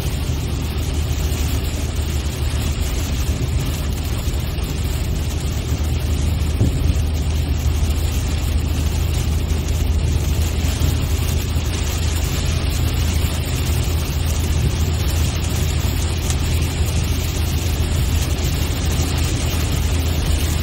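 Steady drone of a car's engine and tyres heard from inside the cabin while driving, with a loud low hum under a constant hiss.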